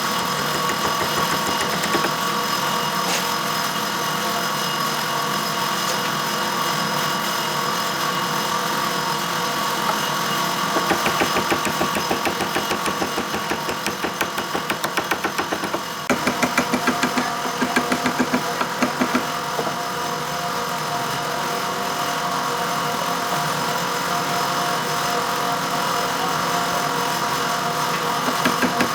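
A woodworking power tool's motor running steadily with a whine, taking on a fast, even pulsing about a third of the way in for several seconds before settling back to a steady run.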